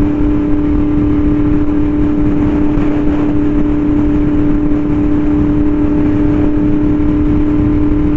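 Yamaha R1M's crossplane inline-four running through an SC Project exhaust at steady cruising throttle, holding one even engine note with no revving, over low wind rumble on the microphone.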